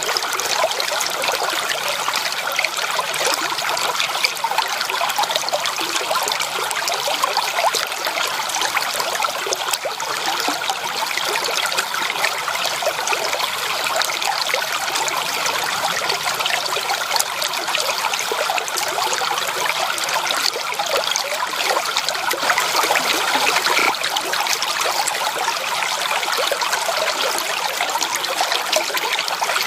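Stream water flowing and trickling steadily, a continuous babble made of many small splashes.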